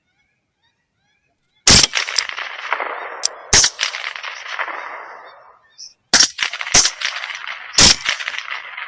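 Five rifle shots fired at coyotes, spaced unevenly a second or two apart. Each crack is followed by a long rolling echo that fades off over the hill country.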